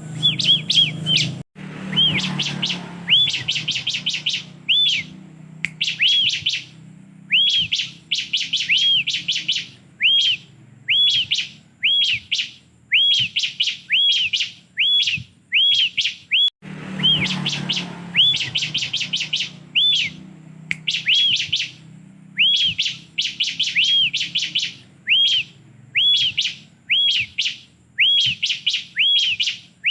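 Bar-winged prinia (ciblek) singing: short phrases of rapid, arched high chirps, repeated about once a second. A low rumble underlies the song near the start and again about halfway through.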